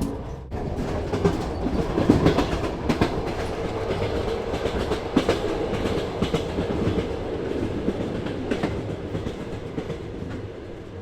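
Train running on rails, its wheels clicking irregularly over the track over a steady rumble, fading out near the end.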